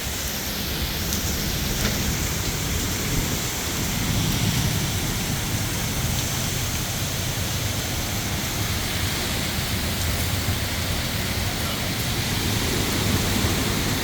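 Heavy rain falling steadily in a severe thunderstorm, with low thunder rumbling about four seconds in and again near the end.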